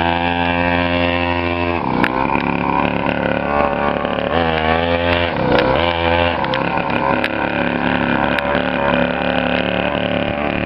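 Custom chopper motorcycle engine running steadily, its pitch dipping and rising again about four to five seconds in as the throttle changes.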